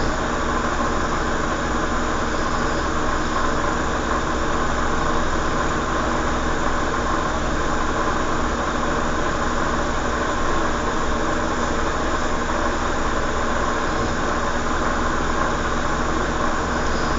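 Steady mechanical hum and rushing noise, like a motor or engine running without change.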